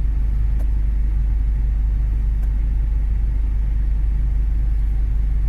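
Diesel engine with Bosch common-rail injection idling, a steady low rumble, with one injector freshly rebuilt to cut its return-fuel leak.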